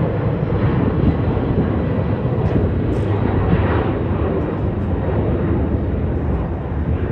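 Jet airliner engines at takeoff power during the takeoff run: a loud, steady rumbling noise heavy in the low end, easing slightly toward the end.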